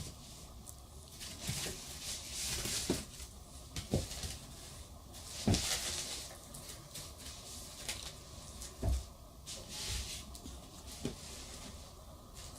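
A toddler handling foam blocks and toy vehicles: scattered soft knocks and bumps at irregular times, mixed with brief rustling swishes.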